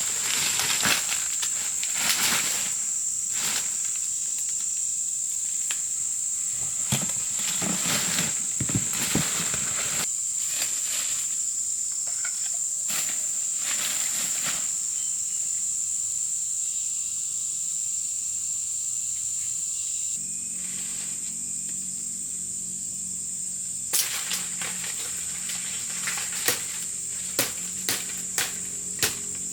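Steady high-pitched drone of insects, with scattered sharp clicks and knocks from handling or movement, and a low hum that joins about two-thirds of the way in.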